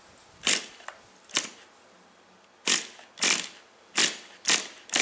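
Recoil pull-starter of a Tamiya TGS 1/10 nitro RC car engine being yanked about seven times, faster in the second half. Each pull is a short rasp, and the engine does not fire: it is running rich and close to flooding, and the compression makes it stiff to turn over.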